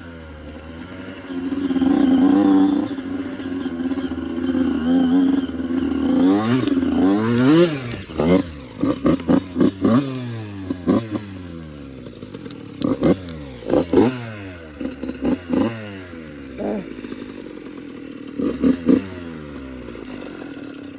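2003 Yamaha YZ85's single-cylinder two-stroke engine, idling and then revved and held up for several seconds. After that the throttle is blipped again and again, each rev rising and falling back to idle, about once a second.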